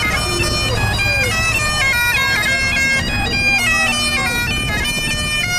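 Bagpipes playing a quick melody that steps from note to note over a steady drone, with low crowd rumble underneath.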